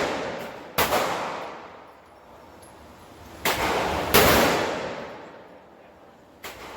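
Desert Eagle .50 AE pistol firing: two loud shots about three and a half seconds apart, each ringing out for over a second, with two quieter reports in between and near the end.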